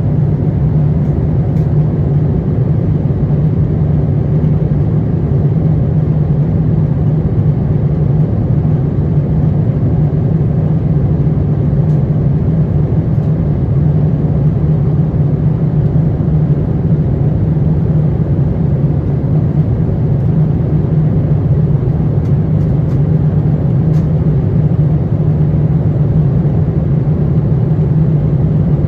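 Steady cabin drone inside an Airbus A350-900 airliner, its Rolls-Royce Trent XWB engines and airflow making an unchanging low hum with no rise or fall in thrust.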